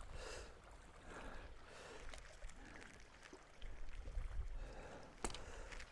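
Quiet ambience on a fishing boat: water lapping at the hull and low wind rumble on the microphone, with one sharp click about five seconds in.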